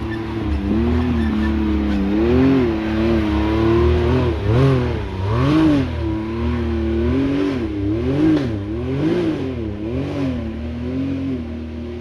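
Side-by-side UTV engine revving up and down in repeated throttle blips as it works up a rocky ledge, the pitch swinging up and back several times in quick succession through the middle.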